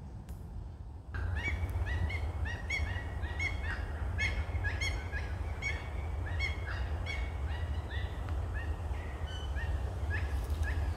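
Music cuts off about a second in, giving way to birds calling: a long run of short, hooked, repeated notes, several a second. A steady low rumble runs underneath.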